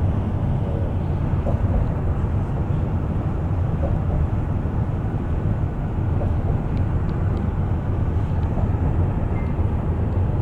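Steady low rumble of a moving bus heard from inside the cabin: engine and tyre noise at an even cruising speed.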